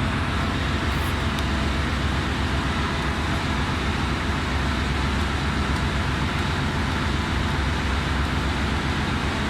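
Steady, loud engine-room machinery drone with a low hum and an even hiss, unchanging throughout: ship's machinery running in the background.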